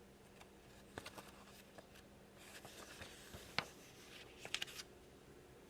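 Faint paper rustling and a few small clicks from a picture book's page being turned and handled.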